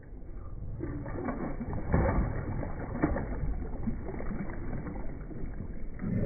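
A hooked pike thrashing and splashing at the water surface, with a jerkbait in its jaws. It comes in irregular surges of splashing that start about a second in.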